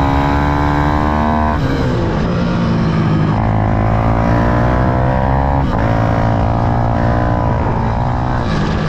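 Small single-cylinder minibike engine revving hard, its pitch climbing steadily and then falling away sharply three times, as at gear changes or throttle lifts.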